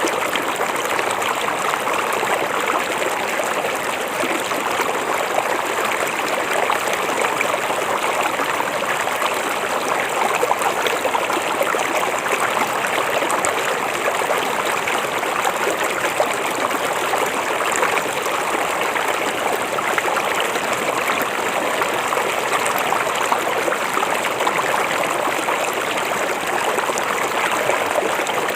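A river flowing, a steady, unbroken rush and babble of running water.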